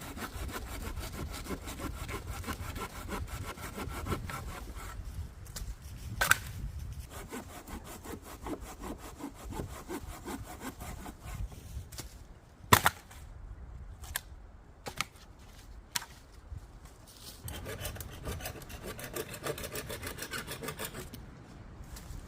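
Hand saw cutting through dry pine in quick, even back-and-forth strokes, in three spells. Between the spells come a few sharp knocks or cracks, the loudest about two-thirds of the way through.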